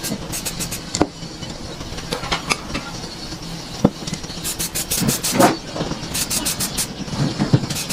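Runs of short scraping strokes, several a second, with a few sharp knocks in between.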